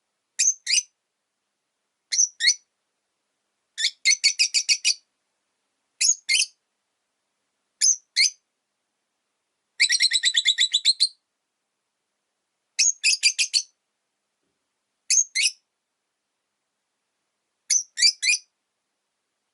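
Rosy-faced lovebird chirping: sharp, high-pitched calls in quick clusters of two or three, repeated every couple of seconds, with a few longer rapid runs of chirps.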